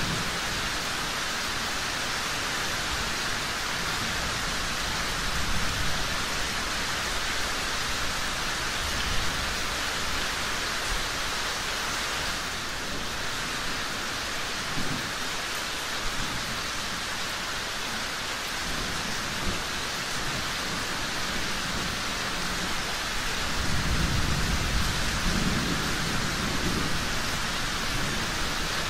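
Steady rain falling, an even hiss, with low thunder rumbling about five seconds in and again, louder, in the last few seconds.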